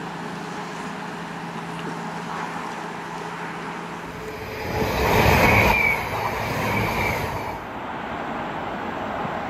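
A train passing close by: a steady low hum gives way about four seconds in to a loud rush of wheel and engine noise that peaks around five to six seconds in, with two brief high-pitched squeals, then falls back to a lower rumble.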